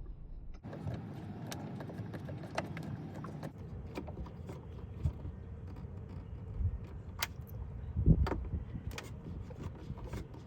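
Screwdriver driving a screw into the plastic glove box of a VW New Beetle, with scattered small clicks and rattles of the tool and parts, and one louder knock about eight seconds in.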